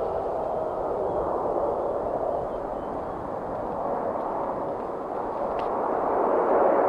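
Jet noise from a Boeing 777-300ER's GE90-115B turbofan engines: a steady rush that grows louder toward the end.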